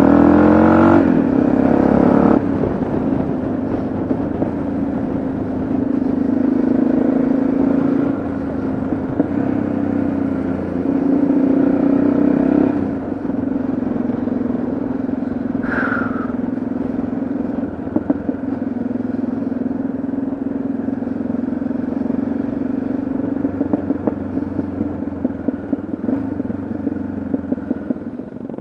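Yamaha XT660Z Ténéré's single-cylinder engine running under way on the road, a steady note that falls and picks up again a few times as the throttle changes. A brief high chirp comes through about sixteen seconds in.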